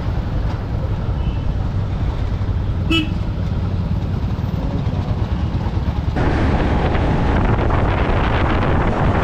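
Steady road and wind rumble while riding, with a short vehicle horn toot about three seconds in. About six seconds in it changes abruptly to louder rushing wind noise on the microphone.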